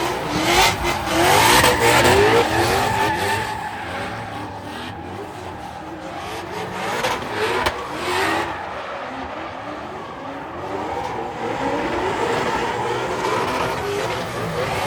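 Drift car's engine revving up again and again in short climbs as the throttle is worked, with tyres squealing, loudest in the first couple of seconds.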